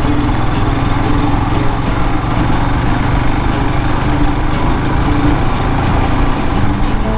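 Royal Enfield Himalayan's single-cylinder engine running steadily under way, a continuous even drone with no revving.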